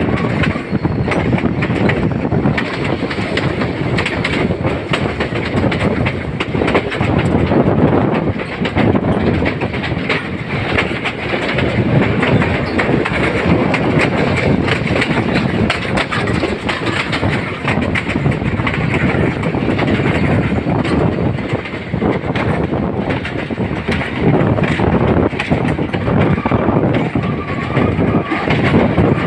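Passenger train carriage running along the track, heard close to the wheels from its open doorway: a steady rumble of wheels on rails with constant rattling and knocking.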